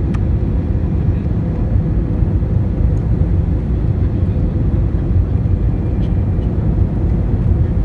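Steady low roar of an airliner's engines and rushing air, heard inside the passenger cabin during the descent to land. A faint click comes right at the start.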